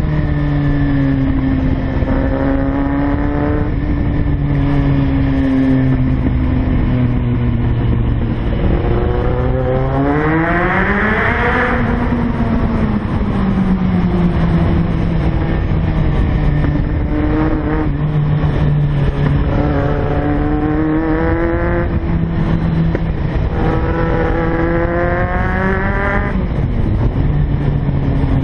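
Kawasaki Z750 motorcycle engine under way, its pitch stepping down and up with throttle and gear changes, climbing sharply about ten seconds in and then dropping back. Wind rushes over the microphone underneath.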